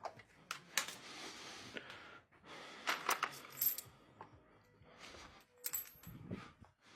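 Small metal parts and tools clinking and scraping against each other, with a string of sharp clicks, while washing machine parts are being handled.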